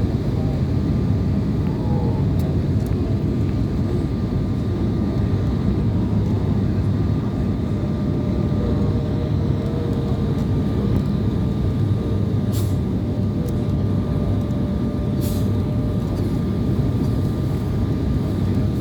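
Steady rumble of an airliner's cabin noise from engines and airflow, with a faint steady whine in it. Two brief clicks sound about twelve and fifteen seconds in.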